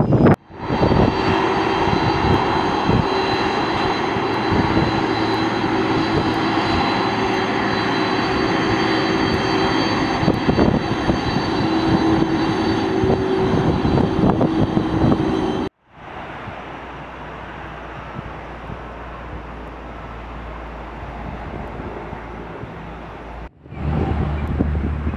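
Airliner engines running loud and steady, with several steady whining tones over a broad rush. About two-thirds of the way in it cuts abruptly to a much quieter low rumble and hiss, and near the end it cuts back to louder engine noise.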